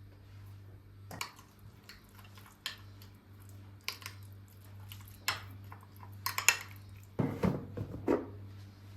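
Kitchen dishes and utensils being handled: scattered clinks and knocks, the loudest a quick cluster about six seconds in, with a steady low hum underneath.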